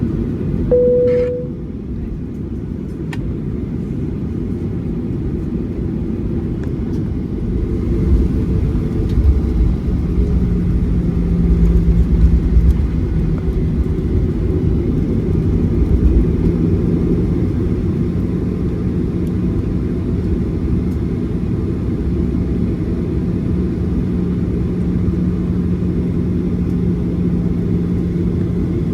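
Cabin noise inside a Boeing 737-800 on the ground: a steady engine hum with the low rumble of the airframe rolling, growing rougher for several seconds in the middle. A brief single tone sounds about a second in.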